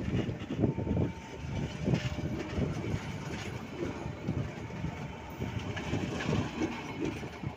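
Passenger train coaches rolling past close by, their wheels knocking over the rail joints in a quick run of repeated thumps.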